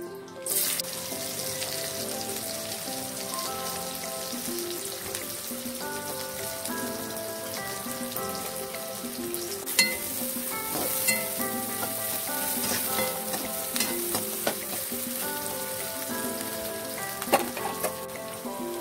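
Sliced onion, carrot and cabbage hitting hot oil in a wok and sizzling. The sizzle starts suddenly about half a second in and keeps on as the vegetables are stir-fried with a spatula, which clacks against the wok a few times. Background music plays under it.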